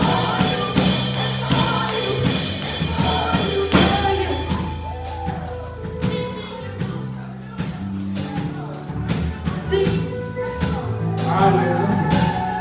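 Live gospel praise music: a band with drums, bass and sustained keyboard chords, with singing voices that rise and fall.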